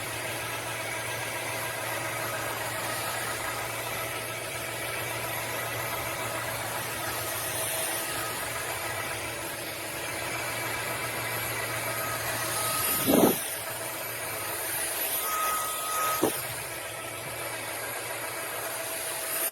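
Narwal S30 wet-dry vacuum mop running steadily, a motor whine over a low hum as it picks up leaves, dust and dog hair. About thirteen seconds in the pitch dips sharply and recovers, and again more briefly around sixteen seconds. The sound cuts off suddenly at the end.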